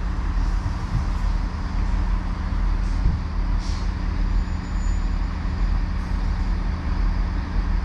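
Class 158 diesel multiple unit's engine running with a steady low drone.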